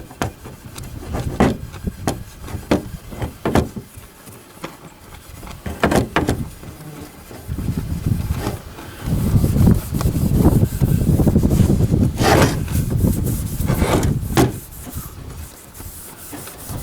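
Hand rubbing and scrubbing on the rifle's metal to take off cold bluing, with scattered knocks and scrapes. A stretch of low rumbling handling noise runs through the second half.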